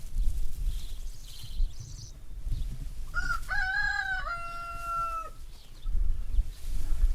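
A rooster crowing once, about three seconds in: one call of about two seconds that ends on a long held note, dropping at the very end. A low rumble runs underneath.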